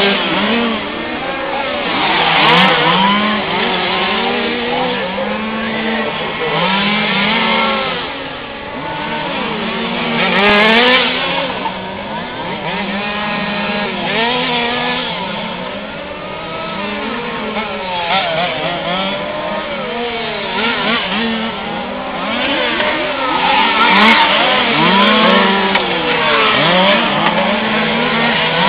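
Several 1/5-scale RC race cars' small two-stroke petrol engines revving up and down as they race around the track, their overlapping pitches rising and falling continuously, with a car passing close about two and a half seconds in, around ten seconds in and again near the end.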